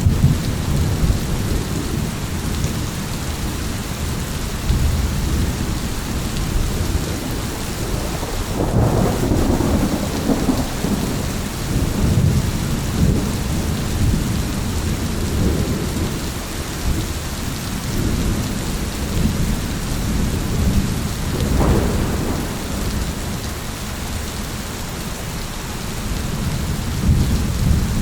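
Steady heavy rain with rolling thunder rumbling underneath, swelling a little past the quarter mark and again about three quarters through.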